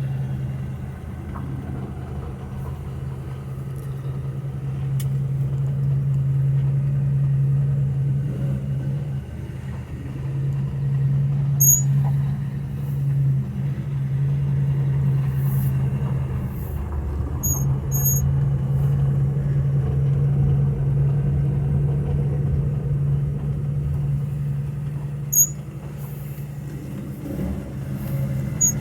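1953 Ford's flathead V8 running steadily as the car drives in a low gear, its note easing off briefly a couple of times. A few short, sharp, high-pitched chirps are heard over it.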